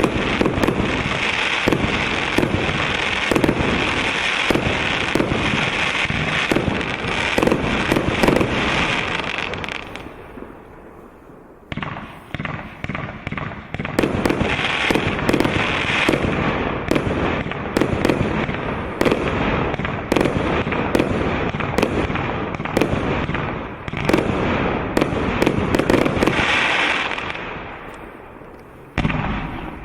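An automatic 30 mm fireworks cake firing shell after shell in quick succession: small coloured shells pop and burst with dense crackling. It eases off briefly about ten seconds in, then picks up again, fades near the end and resumes with a bang.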